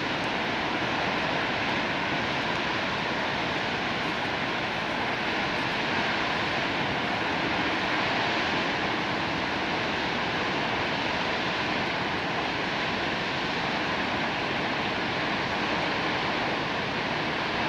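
Flash-flood water rushing steadily, a loud unbroken rush with no let-up.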